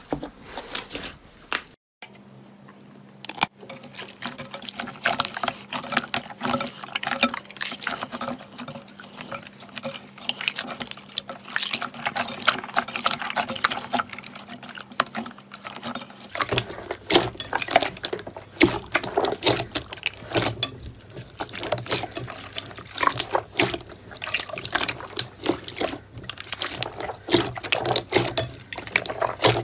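Slime being squeezed and pressed by hand, making dense, irregular wet clicks and small pops. It breaks off briefly about two seconds in and then carries on.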